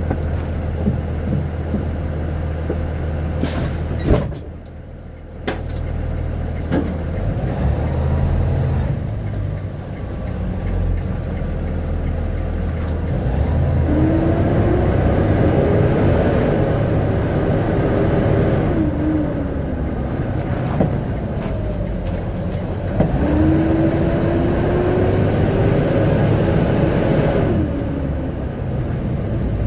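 Vehicle engine idling with a steady low drone, then revved twice, each rev rising and held for about four seconds before dropping back to idle.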